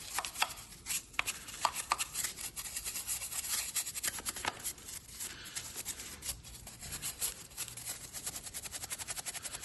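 A brush scrubbing degreaser into the grime on an engine, in quick, uneven rubbing strokes with the odd sharper knock.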